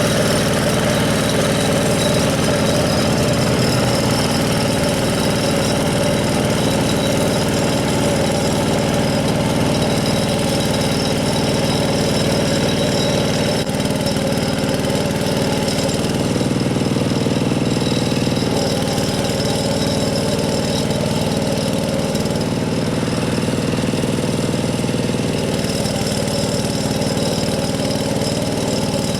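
Two-wheel hand tractor's single-cylinder diesel engine running steadily.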